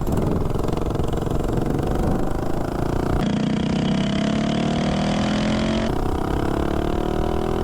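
Tillotson 212 single-cylinder mini bike engine with a header pipe under throttle, its pitch climbing steadily as it accelerates, dropping back about six seconds in, then climbing again.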